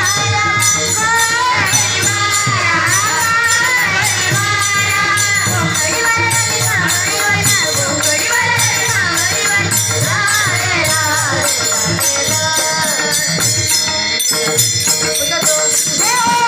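A woman singing a Marathi gaulan devotional song, with bhajan accompaniment of jingling hand percussion and a steady beat.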